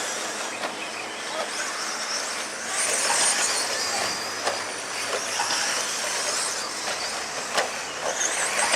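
Radio-controlled stadium trucks racing on a dirt track: a high motor whine that swells and fades as the trucks pass, twice, with a few sharp clicks of wheels and chassis hitting the track.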